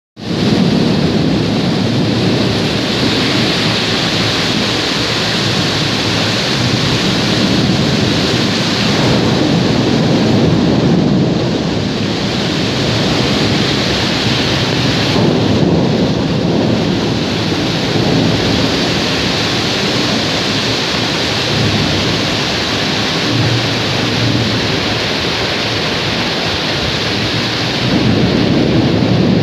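Thunderstorm: heavy rain pouring steadily, with thunder rumbling in several low swells.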